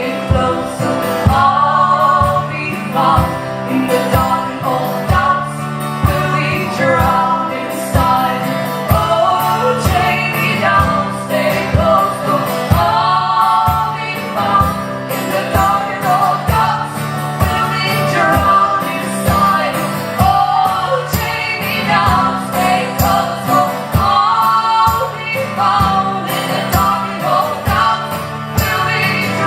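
Live band performing a song: singing over instrumental backing with a steady beat.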